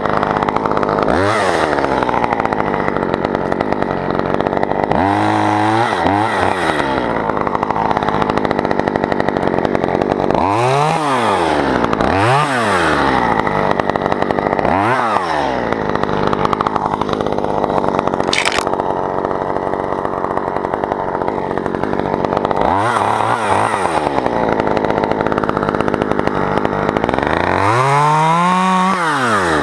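Chainsaw running hard throughout, its pitch dropping briefly toward idle and climbing back up several times.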